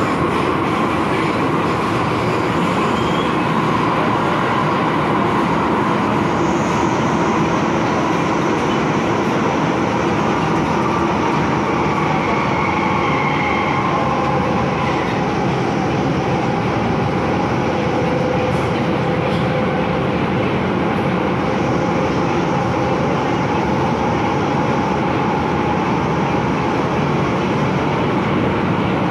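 MTR Kwun Tong Line M-Train (Metro-Cammell electric multiple unit) running between stations, heard from inside the carriage: a steady rumble of wheels on track, with a faint motor whine that slowly shifts in pitch.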